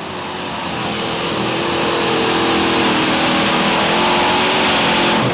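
International super stock pulling tractor's diesel engine running flat out under load, a loud, steady rush of engine and exhaust noise that builds over the first couple of seconds and then holds.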